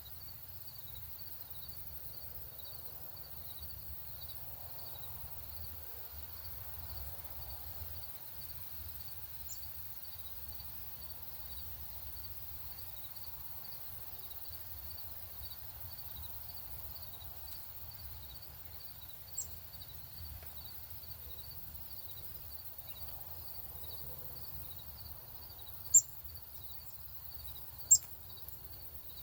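Outdoor ambience with a steady low rumble and an insect chirping steadily, about twice a second. A few short, sharp bird chip notes come through, two of them loud near the end.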